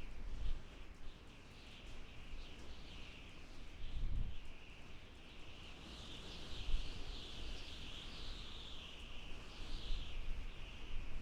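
Desert wind blowing in gusts, with low rumbling swells about four seconds in and again near the end. Under it runs a continuous, high, wavering chatter of small animal calls.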